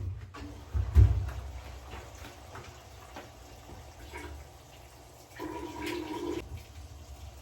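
Water running into a washing machine as it fills, with a loud low bump about a second in and a short hum from the machine near the end.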